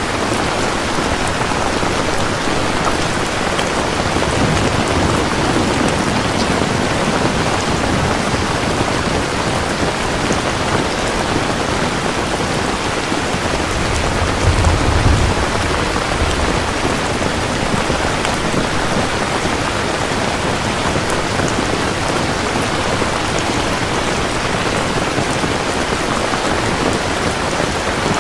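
Steady heavy rain falling, with a short low rumble of thunder about halfway through.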